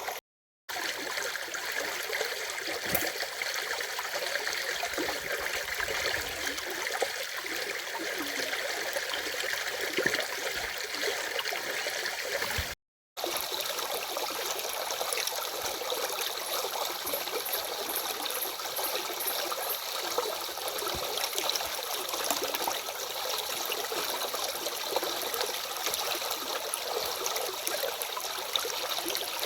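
Stream water running steadily over its bed, a continuous babbling rush with small trickling splashes. The sound cuts out completely twice for a fraction of a second, near the start and about 13 seconds in.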